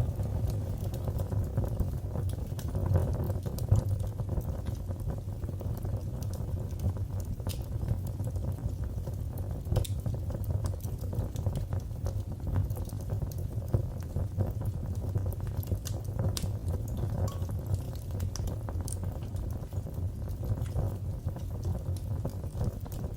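Fire burning in a fireplace: a steady low rumble of flames with frequent small, irregular crackles and pops.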